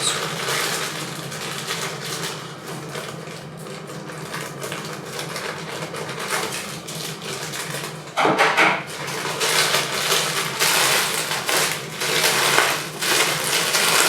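Plastic shipping mailer being cut open and handled, with irregular crinkling and rustling of the plastic as the t-shirt is got out. It gets louder about eight seconds in.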